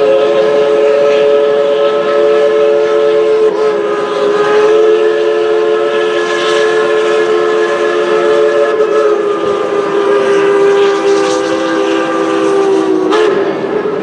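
Steam locomotive 190's Crosby chime whistle blowing one long blast, a chord of several steady notes held for about 13 seconds before it cuts off.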